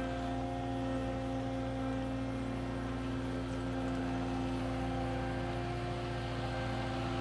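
Diesel engine of a piece of compact earthmoving equipment idling steadily at a constant speed, with a steady hum.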